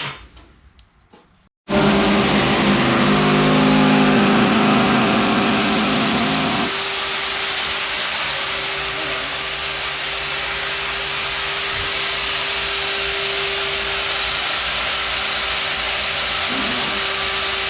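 A motor-driven machine running steadily with a loud rushing hiss and a steady hum. It starts abruptly, and its lower sound changes about five seconds in before settling.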